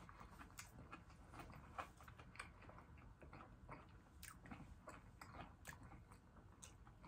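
Faint close-miked chewing of fried seafood: soft, irregular mouth clicks and smacks with the mouth closed.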